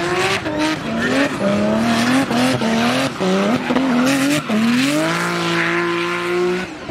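Turbocharged BMW E30 Touring doing a burnout: the engine revs up and down in short bursts, then climbs and holds a steady high rev for about two seconds before dropping near the end, over the hiss of spinning tyres.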